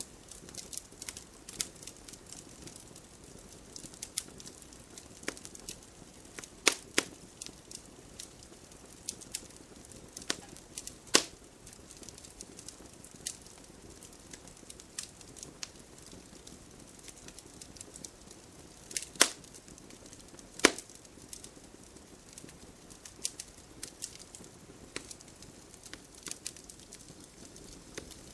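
Wood campfire crackling: irregular small pops and ticks over a faint steady hiss, with a few louder sharp snaps spread through.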